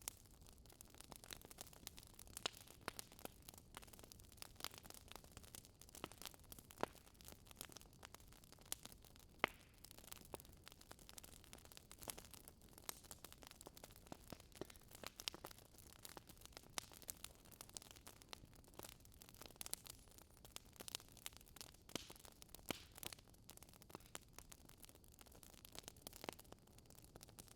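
Fire crackling in a fireplace: quiet, irregular pops and snaps over a faint steady hiss.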